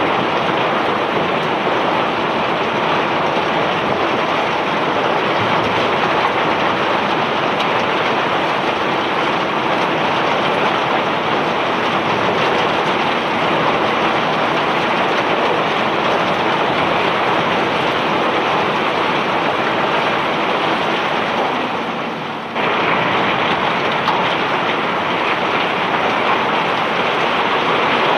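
Steady loud rushing of bulk rock cargo pouring off a self-unloading barge's discharge conveyor, an even gravelly roar with no rhythm. It dips briefly about 22 seconds in, then comes straight back.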